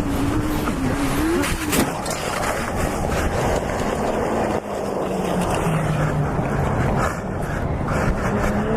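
Vehicle engine running under heavy wind and road noise, its note wandering up and down. There is a sharp knock about two seconds in.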